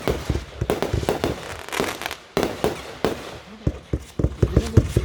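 Fireworks display going off: many sharp bangs and booms in quick, irregular succession, with a hissing crackle between some of them.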